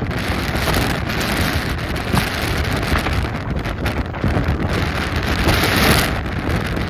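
Storm noise: a steady, loud hiss of rain and wind buffeting the microphone.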